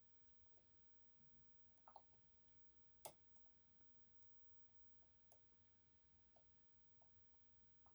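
Faint, scattered metallic clicks of a short hook pick working the unsprung sliders of an EVVA 3KS lock under tension, with one sharper click about three seconds in.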